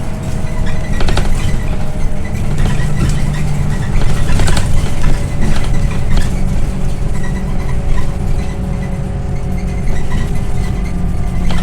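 Scania OmniLink I city bus under way, heard from inside: its engine drones steadily, and the body and fittings rattle every so often.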